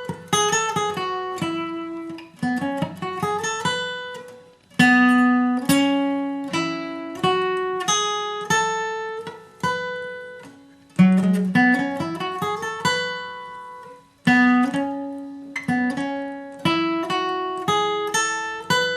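Acoustic guitar played solo: a bluegrass single-note lead, picked note by note in short phrases, with notes slid up the neck into several of them.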